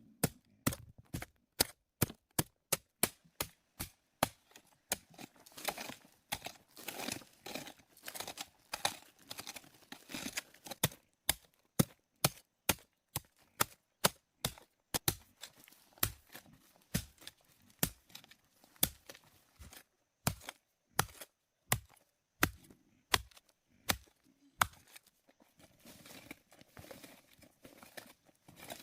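A long series of sharp knocking strikes, about two or three a second, with rustling between strikes for a stretch near the start and again near the end.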